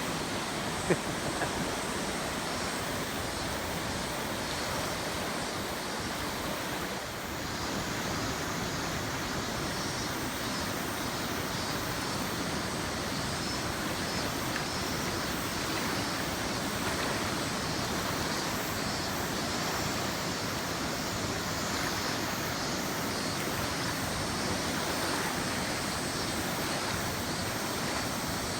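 River water rushing steadily over rapids, the river running high after rain.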